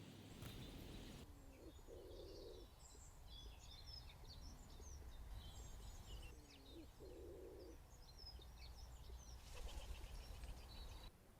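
Pigeon cooing: two low phrases about five seconds apart, with small birds chirping and twittering at a higher pitch throughout.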